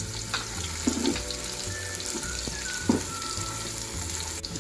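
Chopped onions and garlic sizzling in hot oil in a pot, a steady hiss, while a slotted spatula stirs them and knocks softly against the pot twice.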